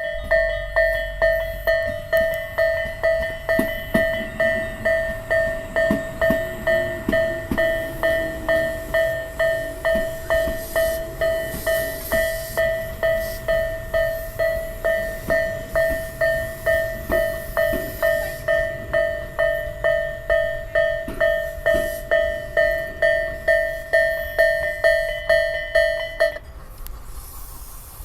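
Electronic railway level-crossing warning bell ringing in an even two-tone beat about twice a second, over the rumble and wheel clicks of a Tobu Railway Skytree Train passing. The bell cuts off near the end.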